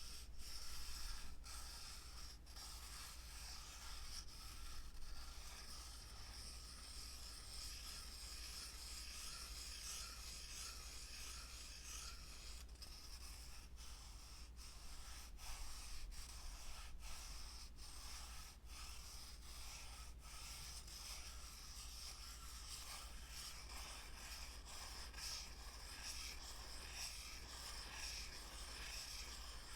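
Steady close-up rubbing, played as an ASMR trigger.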